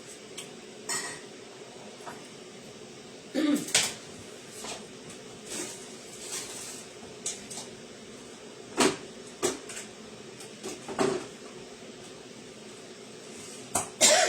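Dishes and cutlery being handled: a dozen or so separate clinks and knocks at irregular intervals, a few louder clatters among them, over a faint steady hum.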